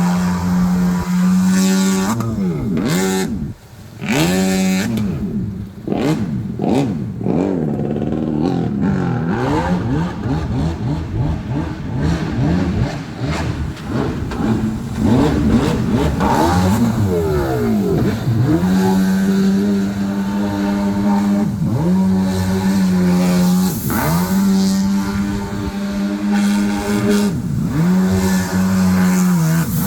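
Mini jet boat's small engine running hard at a steady high pitch, the throttle eased off and opened again several times so the pitch drops and climbs back.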